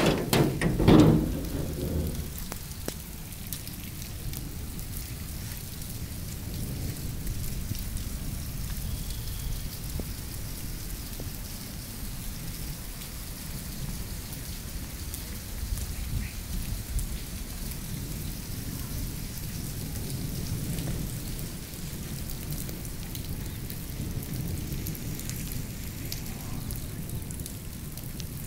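Moderate rain falling on wet ground, an even hiss over a low rumble. A loud sudden crash comes in the first two seconds.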